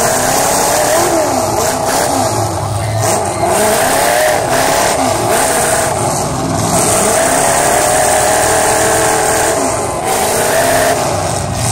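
Several demolition derby cars' engines running hard and revving, their pitches rising and falling over one another.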